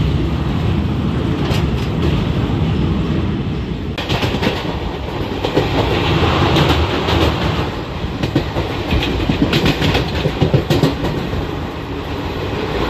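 Passenger train running on the rails: a steady rumble of the wheels with irregular clicks and clacks as the coach passes over the rail joints, the clacking busiest in the second half.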